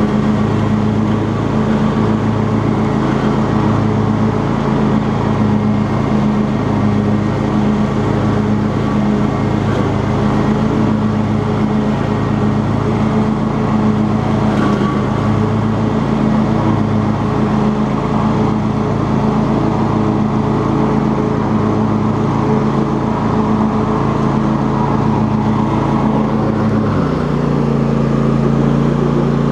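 Cub Cadet XT2 lawn tractor engine running steadily while mowing, its low hum pulsing slowly and evenly, roughly once a second. Near the end the engine note shifts.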